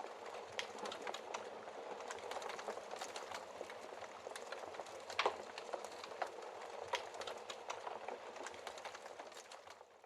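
Wood fire crackling, a steady soft hiss full of irregular sharp pops, the loudest pop about five seconds in. It fades out at the very end.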